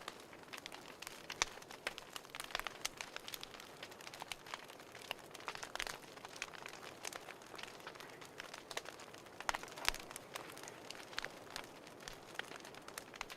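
Wood fire crackling in a fireplace: irregular pops and snaps over a soft steady hiss.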